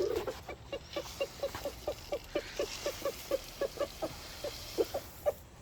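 Chickens clucking in a quick, steady run of short low clucks, about four a second, with a soft rustling hiss in the middle.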